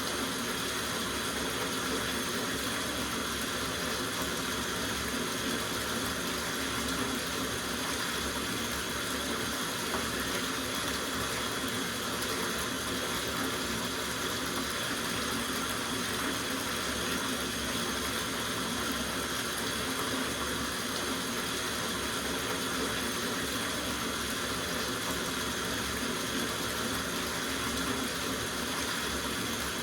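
Tap water running steadily into a soaking tub, a constant even rush.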